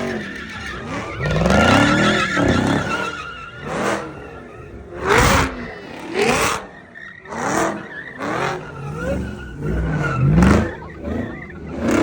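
Car engine revving up and down again and again while its tyres spin and squeal, as in a burnout or donut at a car sideshow pit, with short loud bursts about once a second in the second half.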